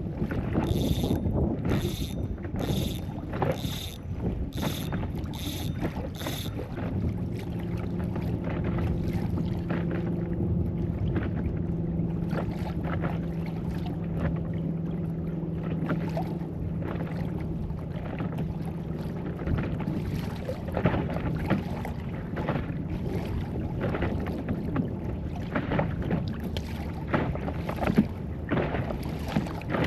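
Wind on the microphone and water moving around a small inflatable fishing boat under way. For the first six seconds there is an even ticking about twice a second, and from about seven seconds in a steady motor hum runs for some twelve seconds before fading into the wind.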